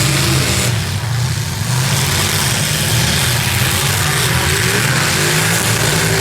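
Several demolition-derby cars' V8 engines running together and revving, their pitches rising and falling against one another.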